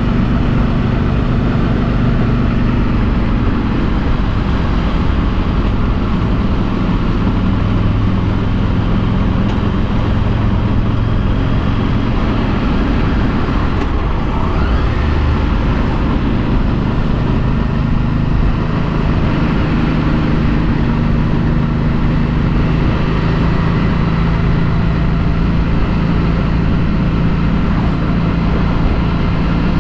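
2016 Harley-Davidson Street 500 V-twin with its stock exhaust, running under way while ridden, mixed with road and wind noise. The engine note shifts a few times and sits higher through the second half.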